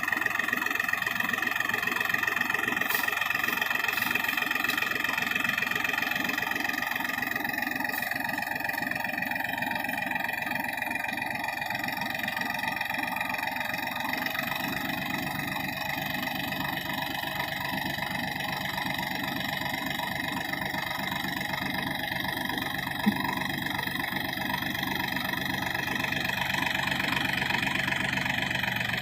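New Holland 4710 tractor's diesel engine running steadily, with one sharp click about two-thirds of the way through.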